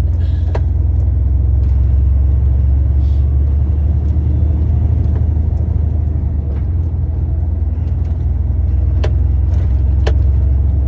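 Heavy goods lorry driving, heard from inside the cab: a steady low diesel engine and road rumble, with a few sharp clicks about half a second in and twice near the end.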